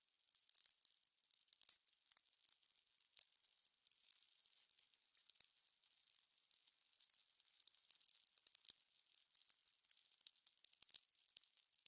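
Fire crackling: a soft hiss with irregular small pops and snaps, several close clusters of crackles, including one around eight and a half seconds in.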